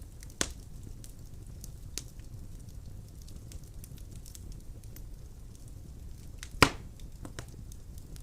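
Wood fire crackling in the firebox of a Solzaima Amber stove-fireplace: scattered sharp pops and ticks over a low steady rumble, with a loud pop near the start and the loudest about six and a half seconds in.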